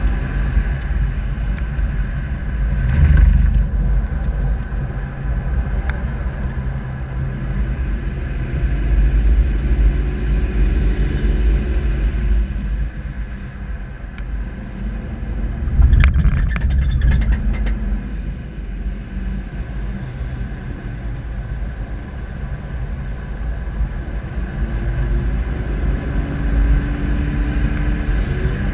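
Steady low road and wind rumble from an SUV driving slowly, picked up by a bumper-mounted camera. A faint engine note rises and falls twice, and there are sharp knocks about three seconds in and about sixteen seconds in.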